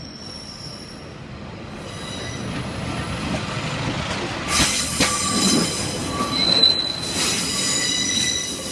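Class 142 Pacer diesel unit running slowly over the crossing. Its wheels squeal from about halfway, with high wavering tones over a rumble that grows louder.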